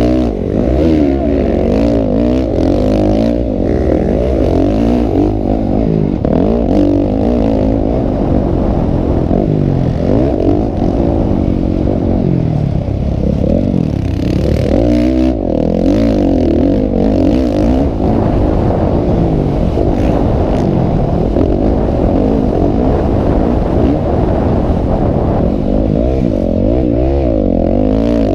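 Several motocross motorcycle engines racing together, their pitches rising and falling over one another as the riders rev and shift.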